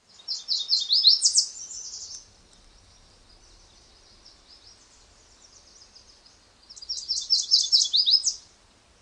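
A small songbird singing: two fast runs of high, quick chirping notes, one at the start and one about seven seconds in, with faint twittering between them.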